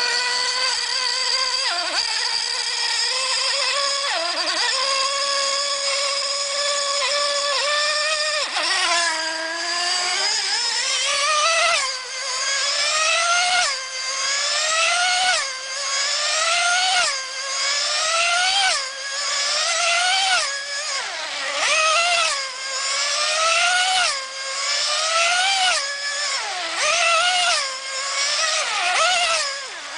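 Small two-stroke model engine of a tethered speed model boat running at a high-pitched scream. For the first eight seconds or so the pitch holds steady; after that it rises and falls about every second and a half to two seconds as the boat circles at speed on its tether.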